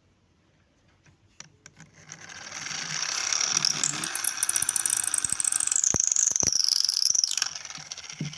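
Small DC motor of a homemade toy tractor spinning its plastic gears with a fast ratcheting clatter and a high whine. It builds up about a second in, runs for about five seconds, and the whine drops in pitch before it dies away near the end. The builder says right afterwards that it keeps doing this again and again, a sign the drive is not meshing properly.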